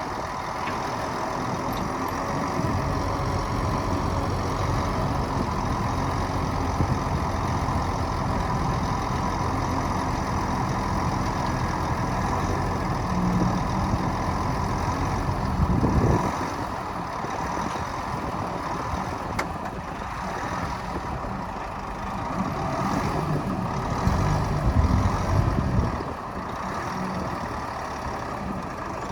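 Heavy diesel engines of earthmoving machines running steadily. The sound surges briefly about halfway through and again louder for a couple of seconds near the end.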